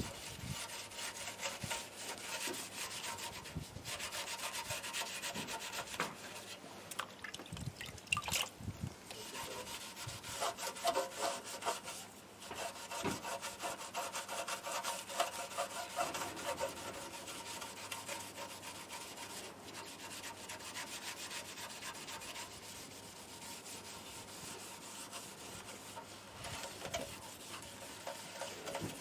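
Hand sanding with coarse 80 grit sandpaper: steady scratchy rubbing strokes, with a few louder knocks about a third of the way through.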